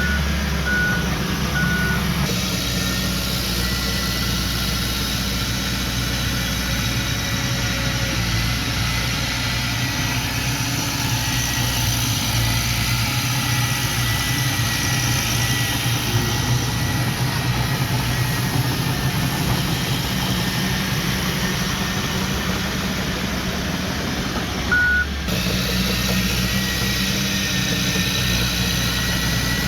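Diesel engine of earth-moving machinery running steadily, with three short high beeps near the start and one more about 25 seconds in.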